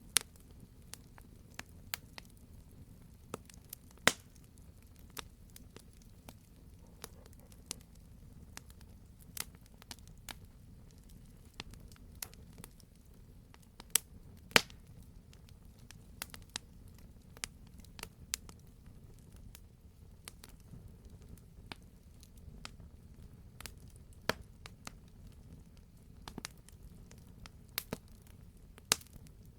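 Wood fire burning, with a steady low rumble of the flames under irregular sharp crackles and pops from the burning wood, a few louder snaps among them.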